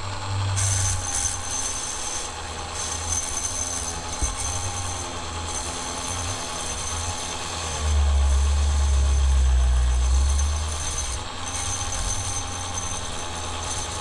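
Dremel rotary tool running at its lowest speed with a polishing wheel and 2400-grit micro mesh, spinning against a small toy car tire to clean it, with a steady thin motor whine. It grows louder for a couple of seconds near the middle.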